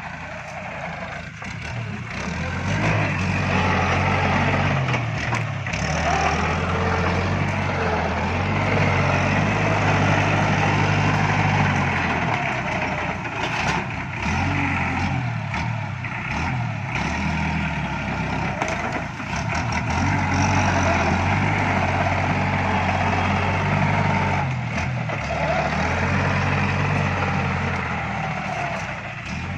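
Iseki NT554 tractor's diesel engine running. It picks up after about three seconds, then rises and falls in level, with a few sharp knocks near the middle.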